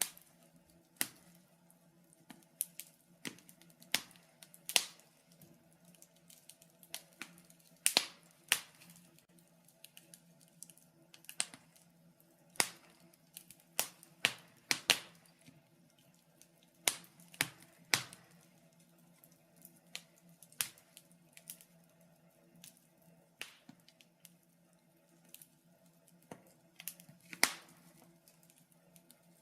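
Wood fire in a fireplace crackling: irregular sharp pops and snaps, a few of them much louder than the rest, over a faint steady hum.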